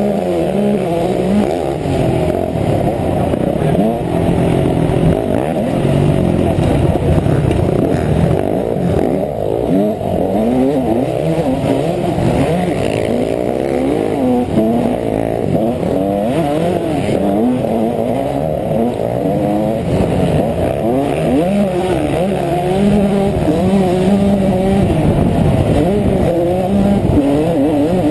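Honda CR125 two-stroke single-cylinder motocross engine revving hard under riding load, its pitch repeatedly climbing and dropping as the throttle opens and closes through the gears.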